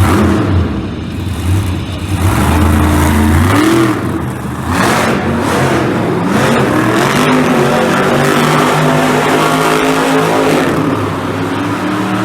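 Engine revving repeatedly, loud throughout, its pitch rising and falling again and again from about the middle on.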